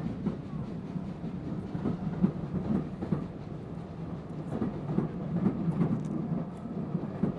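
Train running on the rails: a steady low rumble with irregular knocks and clacks of the wheels over the track, one sharper knock about two seconds in.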